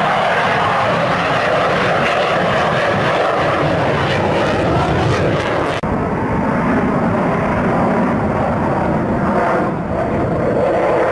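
Sukhoi Su-27 jet fighter flying a display, its twin turbofan engines giving a loud, continuous jet roar. About halfway through, the high hiss drops away suddenly and a deeper rumble remains.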